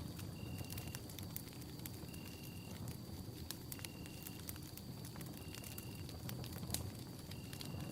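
Campfire burning with a low steady rush and scattered crackles and sharp pops, one louder pop near the end. Over it a short high note repeats about every second and a half, above a faint steady high tone.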